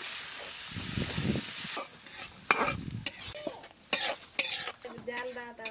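Onion and spice masala sizzling in a metal kadai as water is stirred into it, the hiss dying down after about two seconds. Then sharp scrapes and knocks of a metal spatula against the pan.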